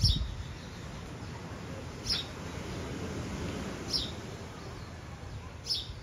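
A bird chirping: four short, sharp, high chirps spaced about two seconds apart.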